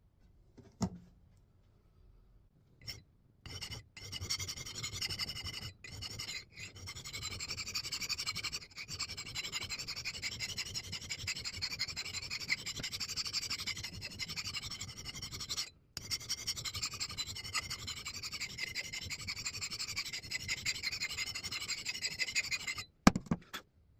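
Hand file rasping against the steel edge of a 3½-pound axe head, sharpening the bit in long runs of filing broken by a few brief pauses. There is a single knock about a second in and a couple more near the end.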